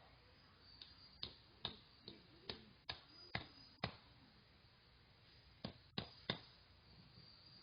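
A run of sharp, light knocks, about two a second for some three seconds, then three more after a short pause.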